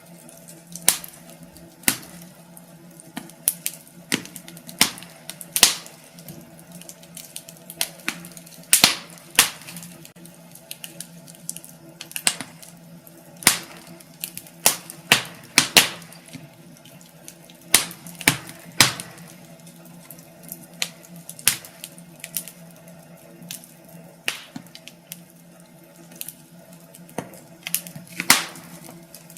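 Wood fire crackling in a fireplace: irregular sharp pops and snaps, several a second at times, over a steady low hum.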